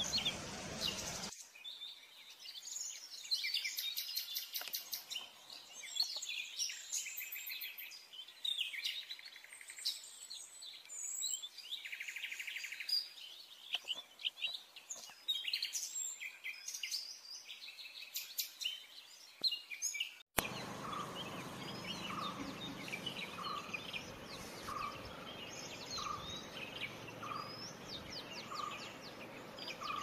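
Wild birds calling, with many high chirps and twitters. About two-thirds through the sound cuts to a different recording: a steady series of evenly spaced, mid-pitched call notes, a little more than one a second, over continuing high chirps.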